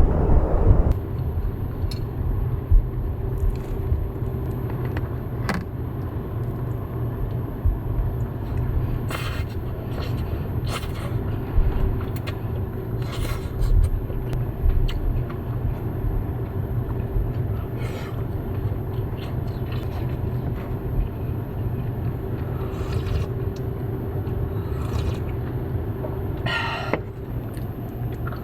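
Steady low rumble of strong wind around a car, with a faint steady hum. Scattered light clicks and scrapes of small objects being handled, several together near the end.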